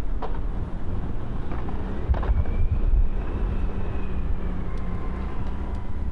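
Blizzard wind buffeting the microphone in a steady low rumble, with a faint thin whine that swells and fades in the middle.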